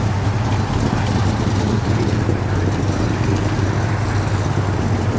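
A car engine running steadily with a constant low hum and no change in pitch.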